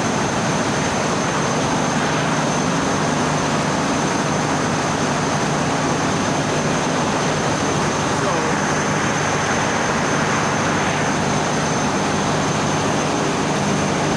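Steady engine-room machinery noise: a loud, unchanging drone with a low hum and a thin high-pitched whine, from other running plant while the main engine itself is still stopped.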